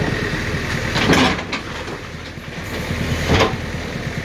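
JCB backhoe loader's diesel engine running steadily, with two loud crashing knocks of demolition, about a second in and again near the end.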